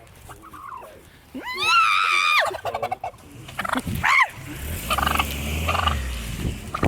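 A turkey gobbling: a loud call about a second and a half in, then a shorter call around four seconds in.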